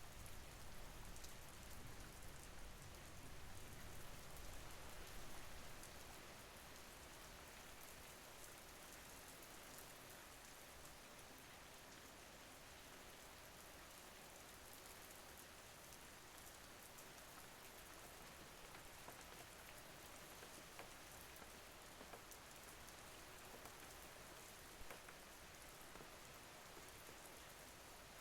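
Soft, steady rain falling on a surface, with scattered drop ticks. A low rumble underneath eases off about six seconds in.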